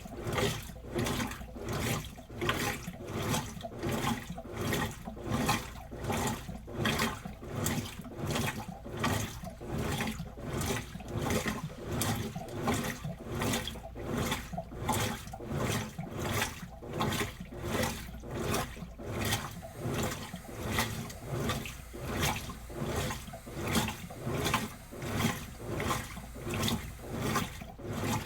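Washing machine washing a load of clothes: water and clothes slosh in the drum in an even rhythm of swishes, about two a second.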